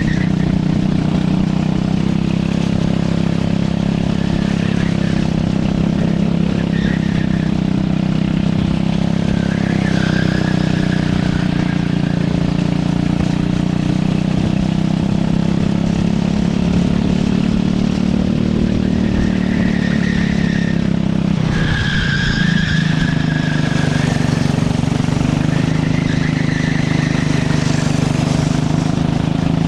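Racing kart engine running hard at speed, its pitch dipping briefly about two-thirds of the way through before picking up again. Several short tyre squeals come through the corners.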